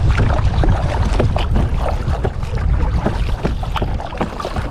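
Water splashing and lapping around a kayak, with small crackling splashes from the paddle and hull throughout, over a steady rumble of wind on the microphone.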